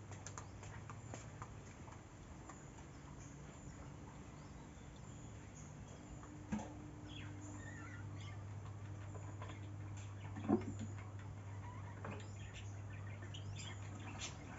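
Outdoor ambience: scattered faint bird chirps over a steady low hum, with two short, louder sounds about six and a half and ten and a half seconds in.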